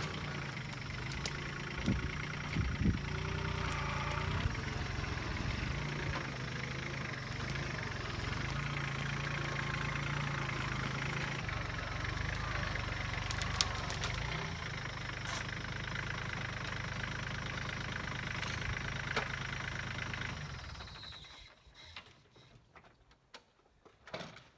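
Tractor engine running steadily with the wood chipper, a low even hum with a few sharp clicks in the second half. The sound dies away about 21 seconds in, leaving only faint knocks.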